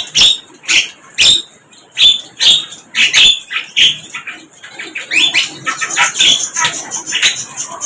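A sikatan londo flycatcher calling: a run of loud, sharp chirps with quick pitch sweeps. The chirps come spaced out at first and crowd together faster in the second half.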